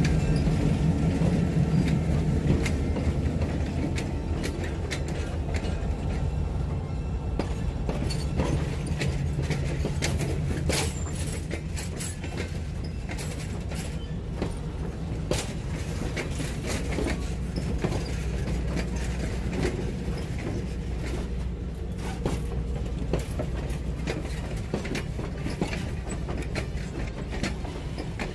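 Passenger coaches rolling slowly past behind a diesel locomotive, their wheels and couplers clicking and creaking irregularly over the track. The locomotive's engine hum is strongest in the first few seconds and then eases.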